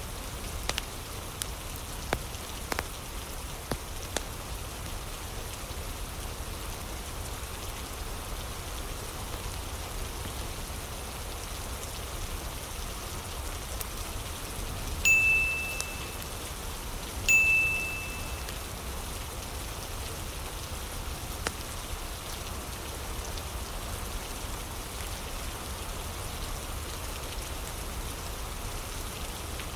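Steady rain with scattered light crackles from a fire. About halfway through, a clear chime rings twice, a couple of seconds apart: the pomodoro timer's signal marking the end of the 25-minute study block.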